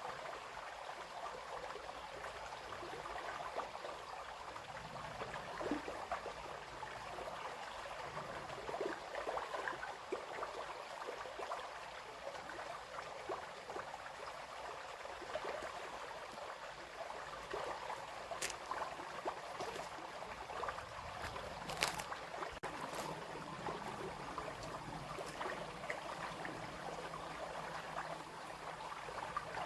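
Small brook babbling and trickling steadily over stones. A few sharp clicks come about two-thirds of the way through.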